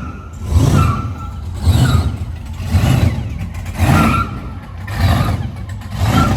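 Car engine revved in short blips, about one a second, each swelling and dropping back.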